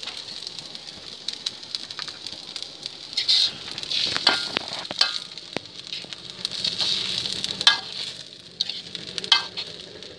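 Egg and rice frying in a hot wok, a steady sizzle. From about three seconds in, a metal spoon scrapes and knocks against the pan several times as the egg is stirred into the rice.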